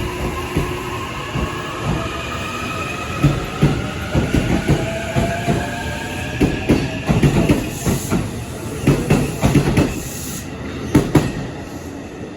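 E233-series electric train pulling away, its inverter and traction motors whining in several tones that rise in pitch as it speeds up. From about three seconds in, a run of clacks from the wheels passing over rail joints, easing off near the end.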